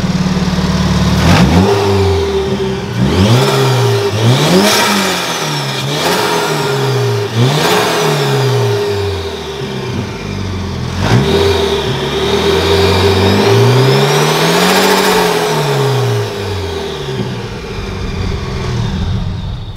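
Supercharged Scion FR-S 2.0 L flat-four engine revved again and again in quick blips, about every second and a half, then one longer, slower rev near the end. A supercharger whine rises and falls with the revs.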